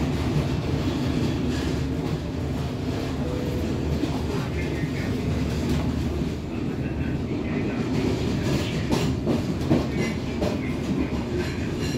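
Matarmaja passenger train rolling slowly, at about 18 km/h, heard from its rear end. A steady rumble of wheels on rails, with clickety-clack over the rail joints and a few sharper clacks about nine to ten seconds in.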